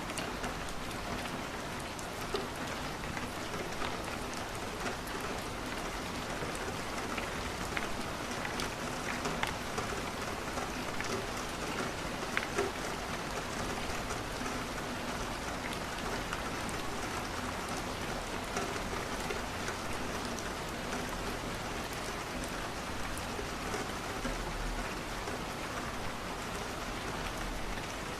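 Steady rain falling against a window, an even hiss with scattered small ticks throughout.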